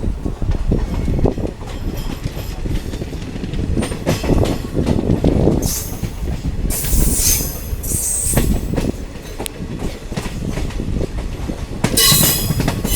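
Diesel multiple unit train running, its wheels rumbling and clattering on the track. High-pitched wheel squeal screeches in about six seconds in and again near the end.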